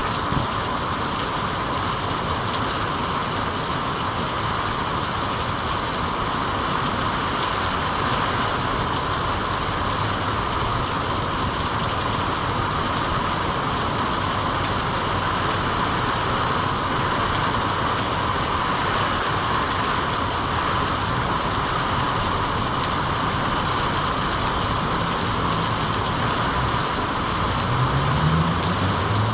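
Steady, even rain noise. A faint low hum rises in pitch near the end.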